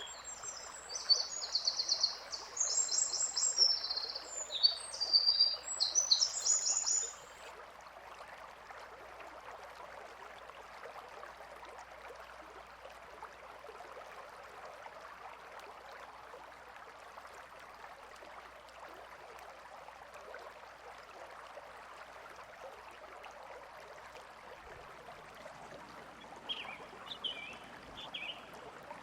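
Birds chirping over the steady rush of a flowing stream. A dense run of quick, high chirps fills the first several seconds, then only the water is heard, until a few more chirps come near the end.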